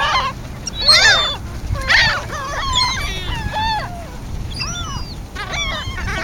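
A flock of birds calling over one another: many short, overlapping calls that bend up and down in pitch, the loudest about one and two seconds in, over a low steady rumble.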